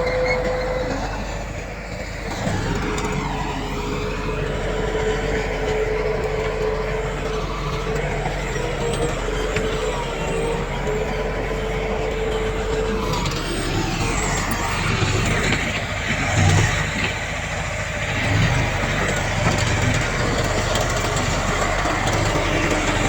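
Heavy earthmoving machines, a bulldozer and dump trucks, running steadily with a continuous engine rumble. A steady high whine sits over it from a couple of seconds in until about halfway through.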